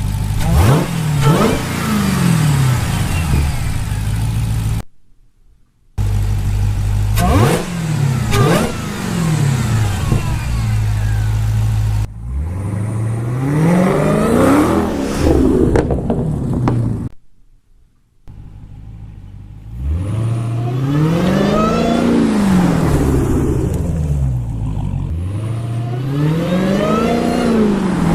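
Dodge Challenger Hellcat's supercharged 6.2-litre V8 revving again and again, its note climbing and falling, with supercharger whine through a Bwoody cold air intake. The sound cuts out twice for about a second.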